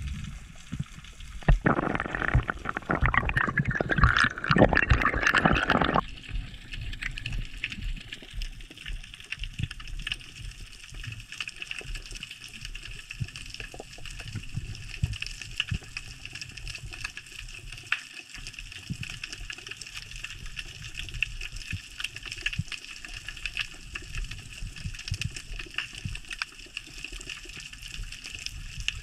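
Underwater water sound: a loud rush of water and bubbles for a few seconds about two seconds in, then a steady hiss with scattered faint clicks.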